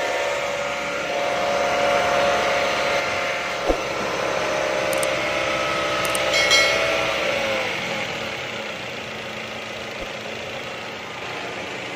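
Ford Escape engine running steadily. There is a single thump about four seconds in and a short metallic clink a couple of seconds later. After about eight seconds the engine note drops away and grows quieter.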